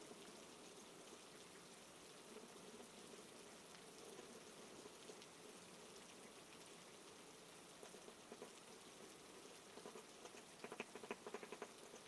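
Soft, steady rain falling and pattering, with a brief flurry of faster, crackly ticks near the end.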